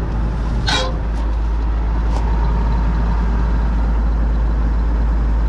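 John Deere 4400 combine running steadily with a constant low drone. A brief, higher, falling sound cuts across it just under a second in.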